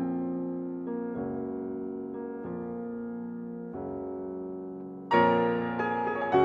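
Background piano music: slow chords, each fading before the next, with a louder, brighter chord about five seconds in.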